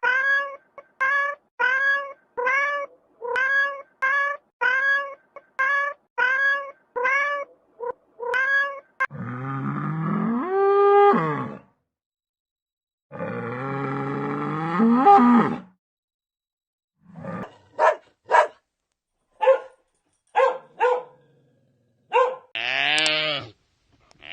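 Geese honking, roughly one honk a second for about nine seconds. These are followed by other animal calls: two long, low, drawn-out calls, then a string of short calls.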